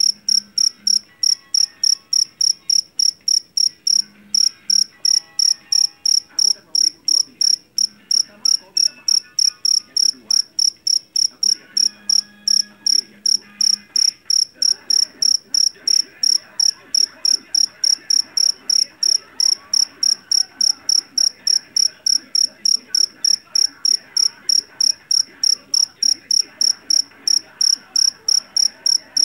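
A jeliteng cricket (Javanese field cricket) chirping steadily and loudly, about three shrill chirps a second.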